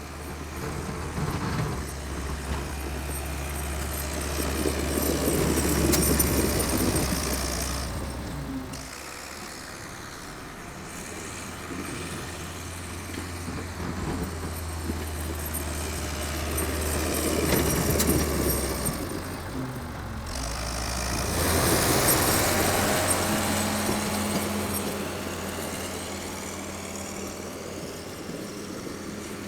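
Engine of a 64-year-old Volvo tractor working while clearing snow, a steady low drone that swells louder three times and eases off between.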